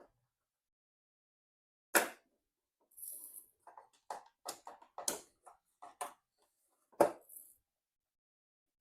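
Sharp plastic clicks and knocks, three loud ones and many lighter ones, as hands work the latch of a motorcycle's ECU wiring connector to unplug it.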